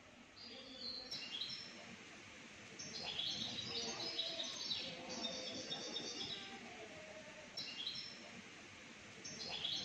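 Birds chirping: repeated runs of short, high calls that fall in pitch.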